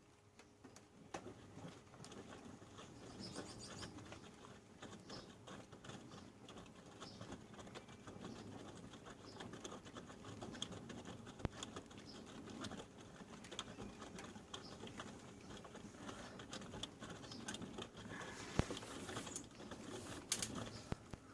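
Panasonic NA-147VB2 inverter front-loader drum turning during the wash, with wet laundry tumbling and water splashing in a continuous irregular patter over a faint steady motor hum.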